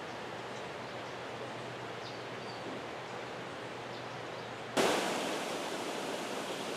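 Steady outdoor background noise with a few faint, high bird chirps. About two-thirds of the way in it cuts abruptly to the louder, steady rushing of a tumbling mountain river.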